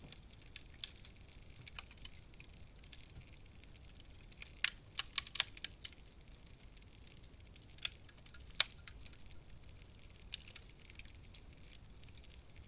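Wood fire crackling in a fireplace: irregular sharp pops and snaps over a faint steady hiss, with a quick cluster of louder pops about five seconds in and two single loud snaps around eight seconds.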